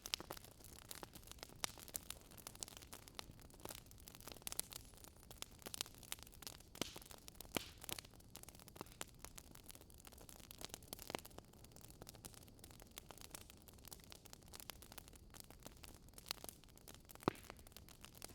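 Wood fire crackling in a fireplace: irregular pops and snaps over a faint, steady hiss.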